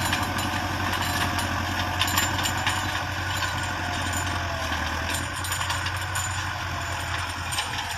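Massey Ferguson 385 tractor's four-cylinder diesel engine running steadily at idle.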